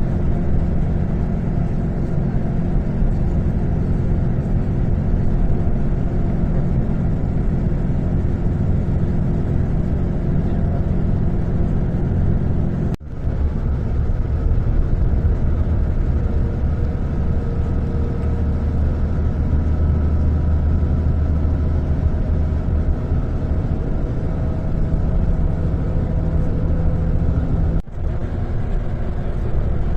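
A vehicle running: a steady low rumble with an engine hum. It briefly drops out twice.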